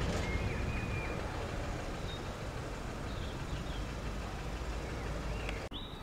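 A heavy diesel engine running steadily at low revs, with a few bird chirps over it. The sound briefly drops out near the end.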